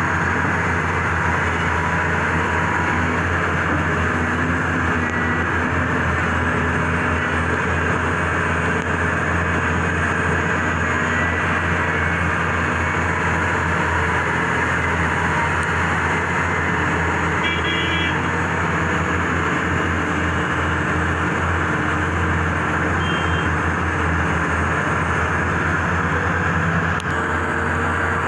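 Heavy diesel engines of an excavator and dump trucks running steadily under working load, a constant low drone.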